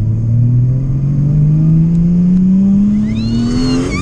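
Turbocharged Toyota 1JZ straight-six in a Nissan 240SX, heard from inside the car, pulling hard in one gear, its pitch rising steadily as the revs climb. Near the end a high-pitched tone rises and arcs over the engine.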